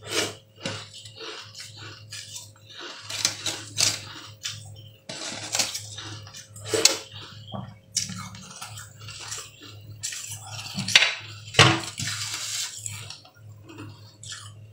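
Close-up eating sounds of soft green jelly: irregular wet chewing and squelching, with several sharp, loud smacks and clicks.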